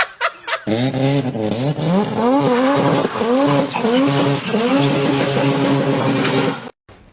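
An engine revving up and down over and over, with a hiss of tyre noise under it, then cutting off suddenly near the end.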